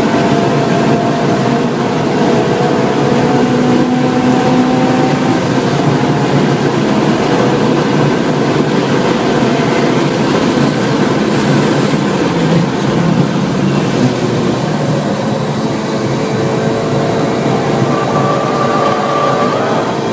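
Kraftwerks-supercharged Honda Civic Si's 2.0-litre four-cylinder engine, heard from inside the cabin, running at high revs under hard acceleration down a straight, with heavy wind and road noise. Its pitch climbs slowly in the first few seconds; later the car slows for a corner.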